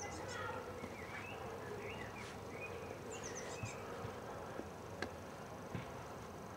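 Small songbirds singing: a run of short chirps and trilled phrases, with a couple of sharp clicks, the loudest near the end.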